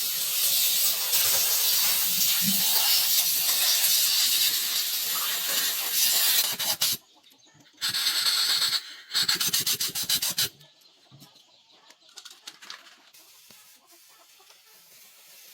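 Electric arc welding: a harsh crackling hiss in three bursts, one long run of about seven seconds, then two short strikes of about a second each.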